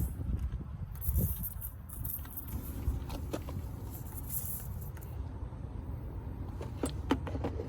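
Steady low rumble with a few small clicks and taps, bunched near the end, from handling the parts of a tire plug kit.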